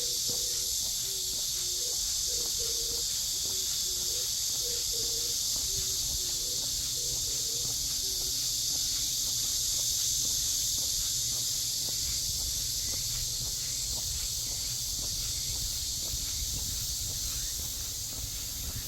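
A steady, high-pitched insect drone fills the air, with footsteps on a path. A low call alternating between two notes repeats during the first eight seconds or so.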